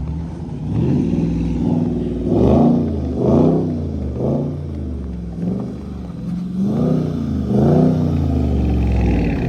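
Dodge Scat Pack's 6.4-litre V8 revved repeatedly, its pitch rising and falling in about five swells, as the car stuck in snow tries to drive out.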